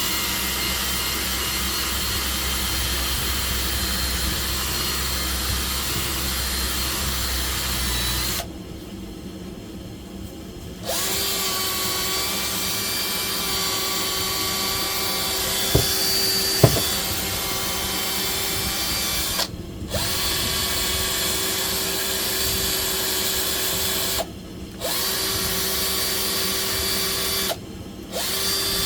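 A handheld electric power tool like a drill, running at steady speed in long spells. It runs for about eight seconds, stops for two, then runs again in shorter spells with brief stops between them. A couple of sharp clicks come in the middle.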